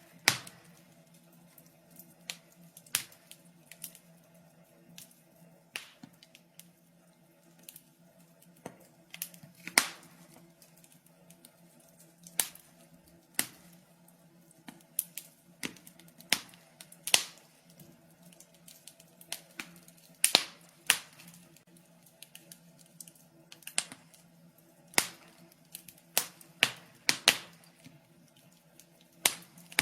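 Wood fire in a fireplace crackling, with sharp, irregular pops about every second, over a faint steady low hum.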